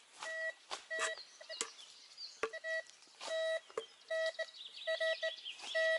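MD3040 metal detector beeping in short, steady tones, single and in quick runs, as the coil is swept back and forth over buried iron: the signal of a metal target in the ground.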